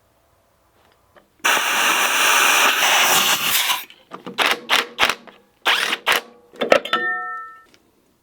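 Workshop metal noise: a loud rough burst lasting about two seconds, then a series of short knocks and scrapes of metal, the last clank ringing briefly near the end.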